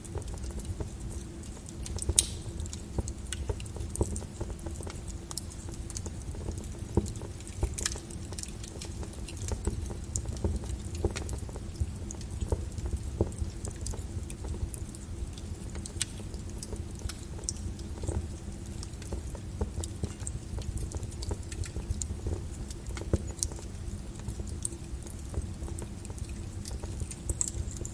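Wood fire crackling in a fireplace, with irregular sharp pops and snaps, the loudest about two seconds in and near eight seconds, over a steady low rumble and rain pattering on a window.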